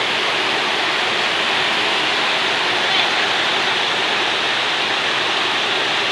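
Heavy rain falling hard and steadily, a dense even hiss, with one faint tap about three seconds in.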